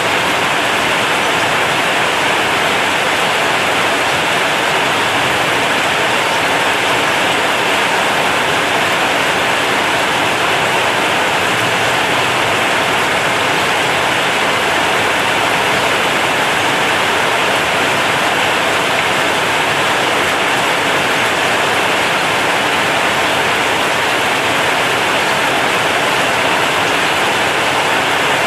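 Heavy rain falling on a corrugated zinc roof, a steady, dense hiss with no let-up.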